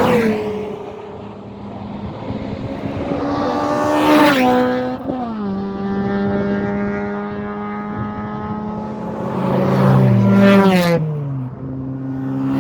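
Honda track cars passing at speed one after another, engines revving high, each car's note dropping in pitch as it goes by. The loudest passes come about four seconds in and again around ten to eleven seconds in.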